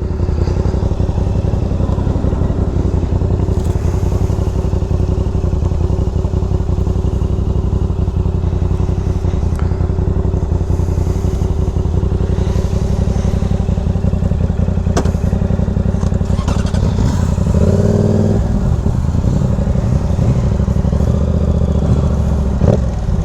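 Motorcycle engine running steadily while being ridden, with a brief change in engine pitch about eighteen seconds in.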